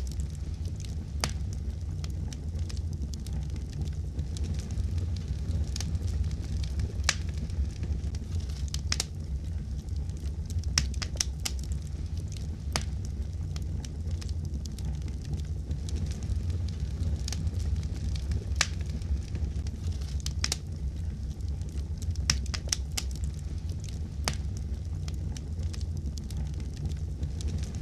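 Fireplace wood fire crackling: frequent, irregular sharp pops and snaps over a steady low rumble of the flames.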